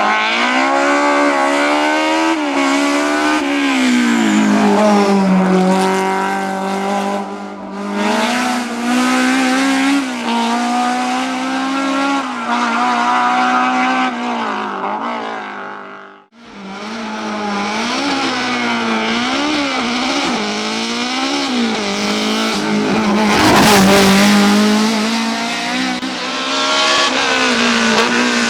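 BMW M3 E30 race car's four-cylinder engine revving hard, the pitch climbing and falling again and again as it works up and down through the gears. About halfway through, the sound drops away for a moment and then picks up again. A short loud burst of rough noise comes near the two-thirds mark.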